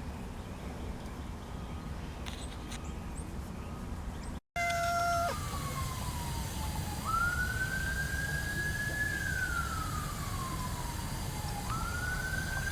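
Faint background for the first few seconds, then, after a cut about four and a half seconds in, an emergency-vehicle siren wailing: a single tone sliding slowly down, jumping back up and sliding down again.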